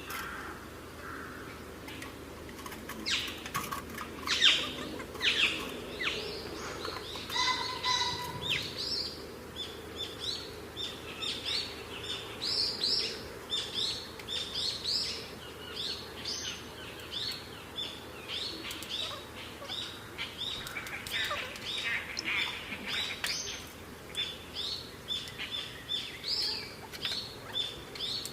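Birds chirping: many short, high calls repeating throughout.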